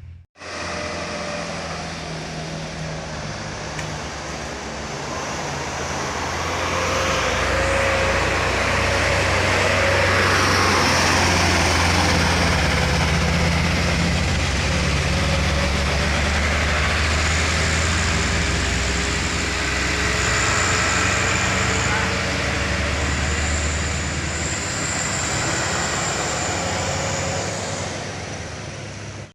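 Heavy truck loaded with sugarcane, its diesel engine running under load amid road traffic noise, growing louder about a fifth of the way in and holding steady.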